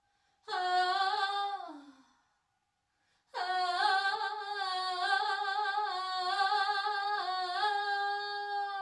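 A woman's voice singing wordless held tones. A short phrase slides down in pitch at its end, then after a pause a long sustained note wavers slightly and drops away at the close.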